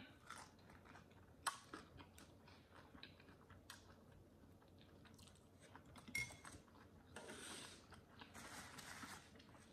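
Faint eating sounds from fried chicken wings being chewed with the mouth closed: soft chewing and scattered light clicks. A soft rustling hiss near the end as a paper napkin is rubbed over the fingers.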